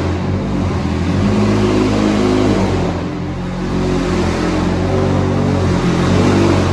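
McLaren twin-turbo V8 supercar engine running loudly through a Novitec exhaust, its note shifting a little in pitch as it goes.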